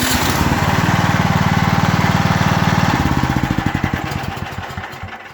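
Yard Works 30-inch snowblower's small single-cylinder engine running just after starting, now that its plastic kill key is pushed fully in. It runs steadily, then winds down and stops near the end.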